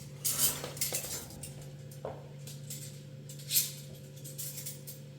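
Scattered clinks and clatter of kitchenware being handled, loudest about half a second in and again past three seconds, over a steady low hum.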